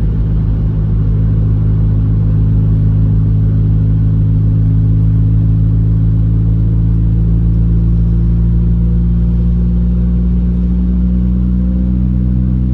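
Car engine and exhaust droning steadily while driving at a constant pace, heard from inside the cabin.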